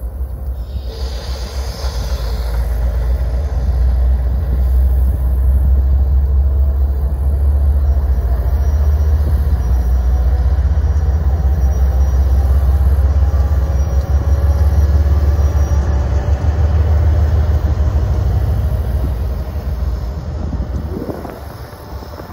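A train rumbling past, loud and deep, swelling over the first few seconds and fading near the end.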